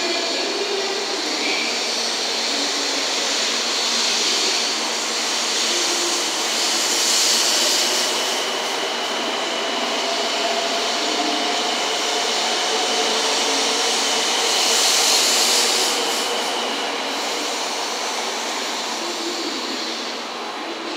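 A Shinkansen 700 Series train pulling away along the platform: steady running noise of wheels and air, with a motor whine that rises in pitch as it gathers speed, and two swells of hiss as the cars go by.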